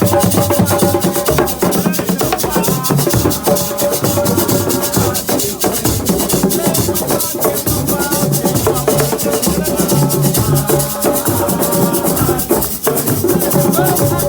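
Live percussion music: drums with a rapid, steady shaker rattle, and voices singing along.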